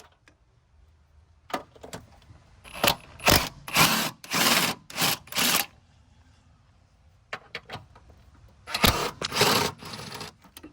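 Hand tools working on a car's engine mount bolts: a series of short scraping, rasping strokes of metal on metal in several bursts, with pauses between them.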